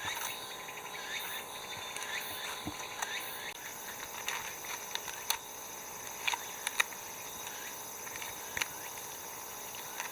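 Insects droning steadily, with short repeated chirping calls during the first few seconds and several sharp clicks or snaps later.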